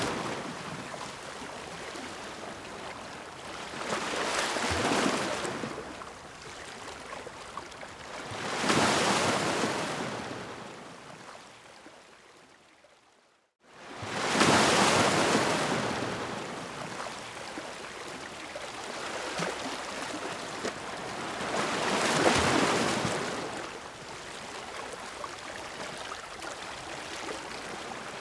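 Ocean waves breaking against rocks, a wash of surf that swells and ebbs with each wave every few seconds. About halfway through the sound fades away to almost nothing, then the next wave breaks at full strength.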